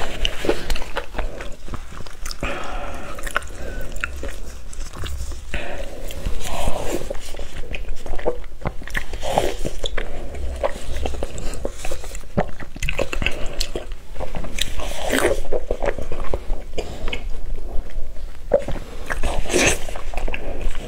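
Biting and chewing of lettuce-wrapped steamed pork, with crunches from the lettuce and wet mouth sounds, in a continuous run of short, irregular bites and chews.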